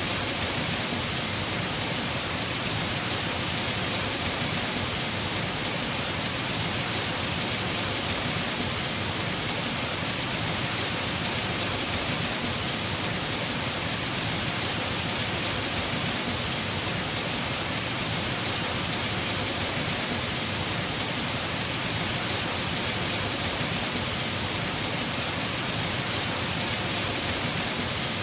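Heavy rain falling steadily on a house roof: an even, unbroken hiss of drops.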